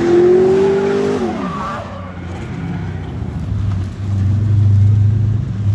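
The LS1 V8 of an MX-5 drift car holds high revs with tyre noise. About a second in, the revs drop, and the engine then runs low and steady, getting louder near the end.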